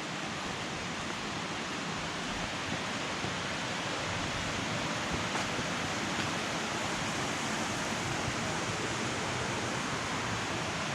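Steady rush of a flowing creek and waterfall, a constant hiss-like roar that grows slightly louder as it goes on.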